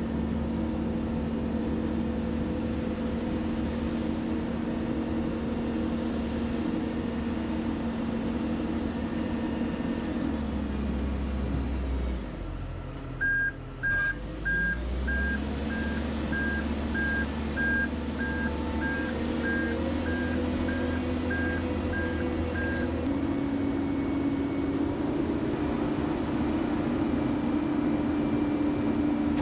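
Heavy equipment diesel engine running steadily, its note dropping about a third of the way in. For about ten seconds after that a reversing alarm beeps roughly one and a half times a second over the engine. Near the end the engine speeds up.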